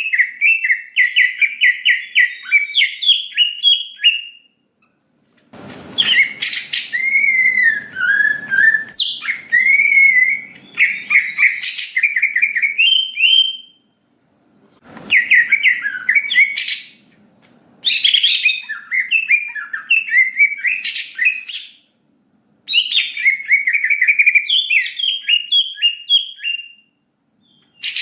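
Green leafbird (cucak ijo) singing a loud, rapid song of varied chattering whistles and trills, in bouts separated by short pauses.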